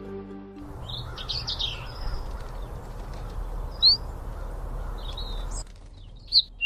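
Birds chirping in short, sharp calls over a steady outdoor background hiss, one chirp near the middle louder than the rest. The background drops abruptly to a quieter one shortly before the end, with more chirps.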